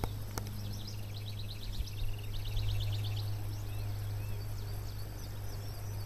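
Outdoor ambience with songbirds: two rapid trills of short high notes about one and two and a half seconds in, then scattered high chirps, over a steady low hum.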